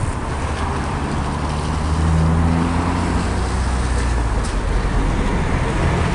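A motor vehicle's engine running, rising in level over the first two seconds and then holding, over a steady rushing noise.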